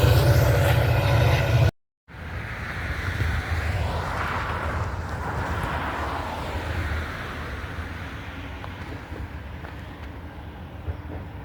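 A train passing close by with a heavy rumble, cut off abruptly under two seconds in. After a brief silence, wind buffets the microphone over a fainter rumble that slowly fades away.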